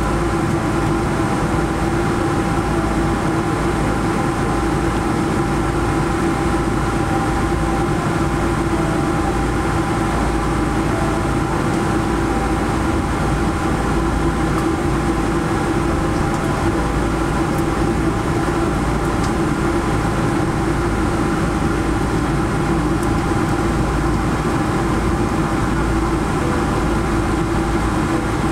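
Steady cabin noise inside a Boeing 777-300 taxiing after landing: the engines at idle and the cabin air system make an even drone with a couple of steady hum tones.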